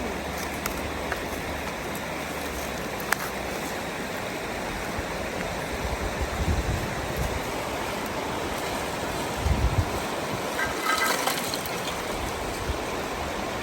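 Steady rush of flowing river water. A few dull low bumps come about two-thirds of the way through, followed by a short rattle.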